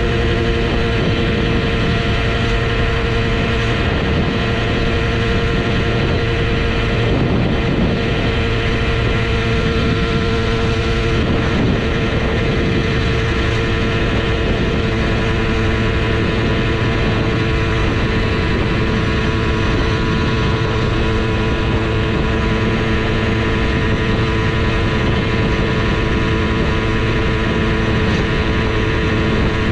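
Simson S51's single-cylinder two-stroke engine with an 85cc kit running at a steady, unchanging speed.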